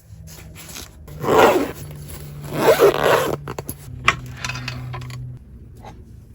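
A zipper pulled in two long strokes, followed by a few sharp clicks. A low steady hum runs beneath them and stops a little past five seconds in.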